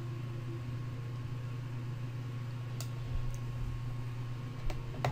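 A few sharp computer mouse clicks, spaced out, about three seconds in and near the end, over a steady low electrical hum and hiss.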